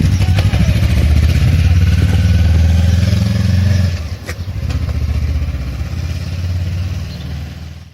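Motorcycle engine running loud and close, held steady at raised revs for about four seconds, then dropping back to a lower, rougher running before cutting off suddenly.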